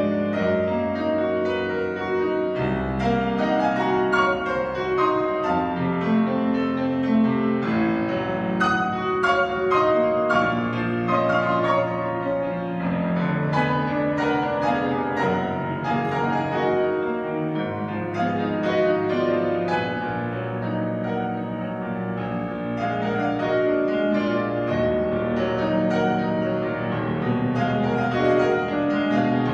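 Piano playing classical music: a continuous passage of many notes over a moving bass line, with no pauses.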